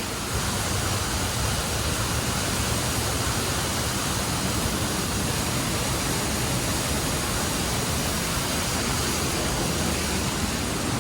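Waterfall pouring close by: a steady, dense rush of falling water.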